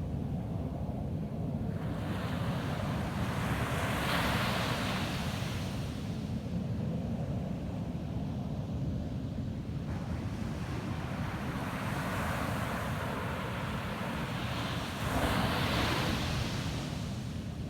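Ocean surf on a beach: waves break and wash in with a swelling hiss, once about two seconds in and again near the end, over a steady low rumble.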